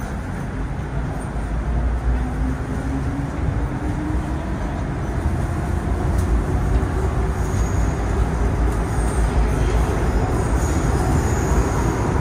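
MTR M-Train electric multiple unit accelerating: a rumble of wheels on the track, with a traction-motor whine that rises slowly and steadily in pitch.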